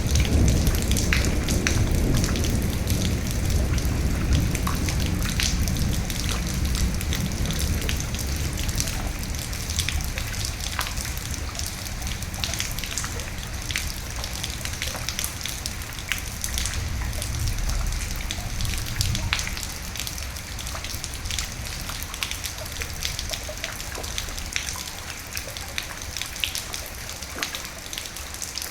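Steady rain with many close drop impacts, and a low roll of thunder that dies away over the first half.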